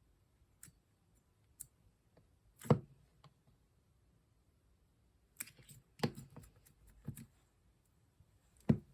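Clear slime being pressed and poked, giving scattered sharp clicks and pops: a few single ones, the loudest about three seconds in, a quick cluster from about five and a half to seven seconds, and one more near the end.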